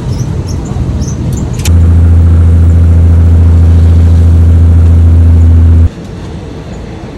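Diesel train running: a loud, steady low engine drone that cuts in suddenly a little under two seconds in and cuts out suddenly about four seconds later, with rumbling and a few sharp clicks before it.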